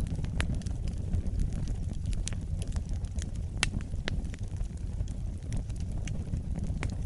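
Wood fire burning in a fireplace: a steady low rumble of flames with irregular sharp crackles and pops, the loudest pop about three and a half seconds in.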